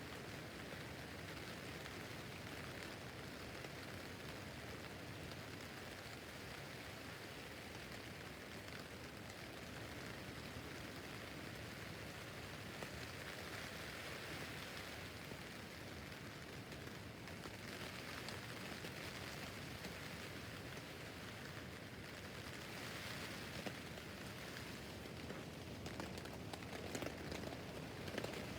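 Steady rain pattering on a tent roof, a few drops landing a little louder near the end.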